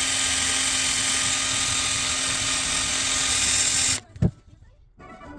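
Electric power tool running steadily with a constant hum and a bright hiss, then cutting out abruptly about four seconds in, followed by a single sharp click.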